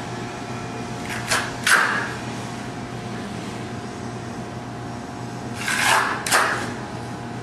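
Trowel scraping over freshly spread resin-and-sand slurry in two pairs of short strokes, about a second in and again near six seconds, over a steady mechanical hum.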